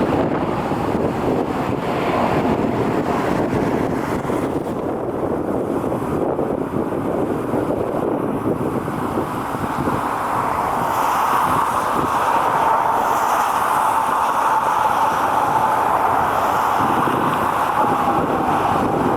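Jet airliner engines running steadily, with wind buffeting the microphone. About halfway through, a whining tone comes in and sinks slightly in pitch as it goes on.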